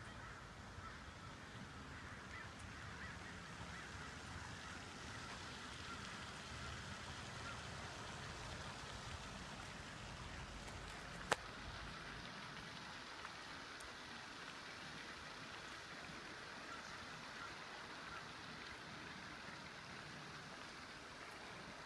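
Faint bird calls over a steady background hiss, with one sharp click about halfway through.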